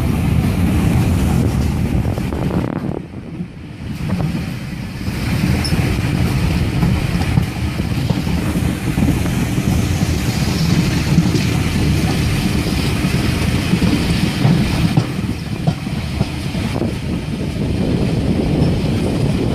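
Steam-hauled passenger train heard from an open carriage window: a steady low rumble of the coaches running along the track, with wind on the microphone. It goes briefly quieter about three seconds in.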